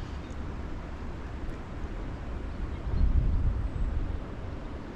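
Steady rushing of a fast-flowing river with a strong current, over a low rumble that swells about three seconds in.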